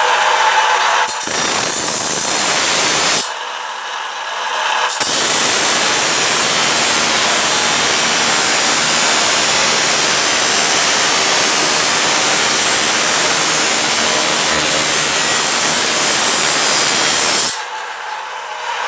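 A power tool running in two stretches, a short one of about two seconds and then a long steady run of about twelve seconds, with a quieter whirring between them.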